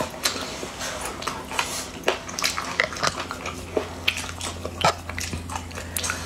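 Close-up crunchy chewing of spicy pickled food: irregular sharp crunches and mouth sounds, several a second, over a steady low hum.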